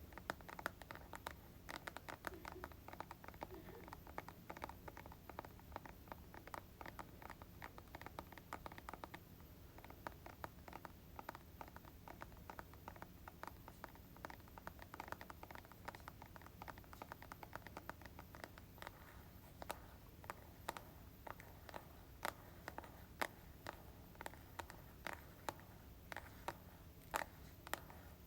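Fingernails tapping on plastic hair-product bottles and jars: light, quick taps, several a second, with sharper single taps near the end.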